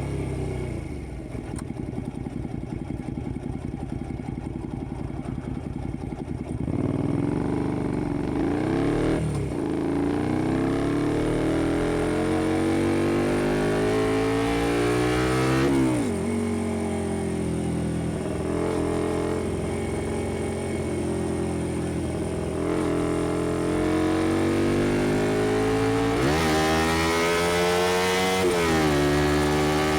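Honda XL125V Varadero's 125cc V-twin engine through a Black Widow aftermarket exhaust, under way and pulling through the gears. It runs fairly steady at first, then rises in pitch several times, each climb cut off by a sudden drop at a gear change, with a steadier cruising stretch in the middle.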